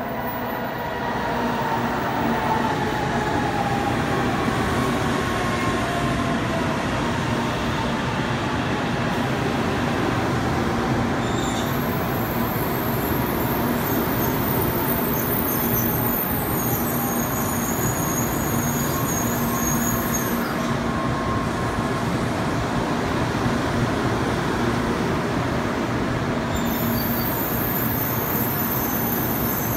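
N700 series 8000 Shinkansen train pulling in and slowing to a stop, with a steady rolling rumble and hiss. Its motor whine falls in pitch over the first few seconds. A high-pitched squeal from the running gear sounds from about 12 to 20 seconds in and again near the end.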